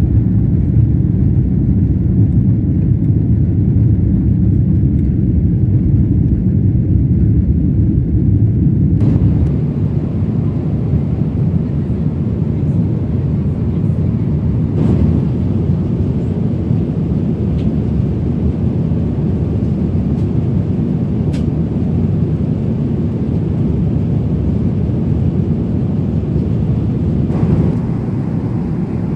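Steady low rumble of jet engines and airflow heard inside a Boeing 777-300's cabin in flight. The rumble drops slightly in level and brightens about nine seconds in, and shifts again near the end.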